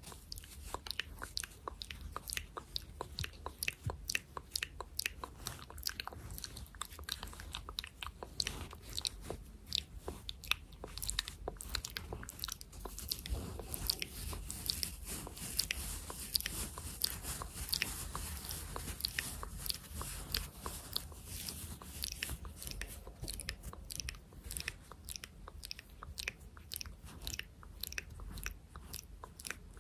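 ASMR hand sounds close to the microphone: a dense, continuous run of small crackling clicks.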